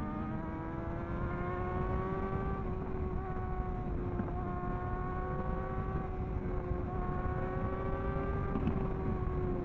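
Superbike engine held at steady high revs, its note nearly level with a slight sag, over a low rushing noise of wind on the microphone.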